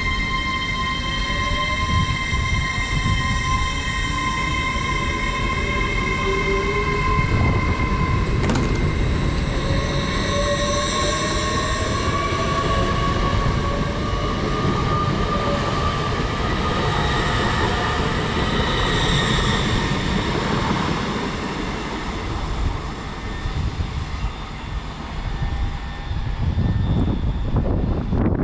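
LNER Class 801 Azuma electric train pulling out of the station, its traction motors whining in several tones that rise in pitch as it accelerates, over a steady rumble of wheels on rail.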